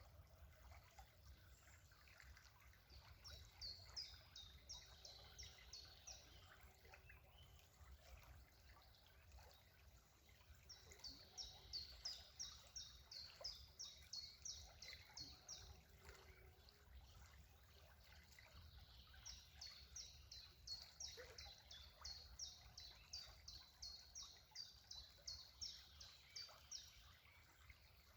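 A songbird singing three long phrases of quick repeated high notes, about four or five a second, over faint trickling water.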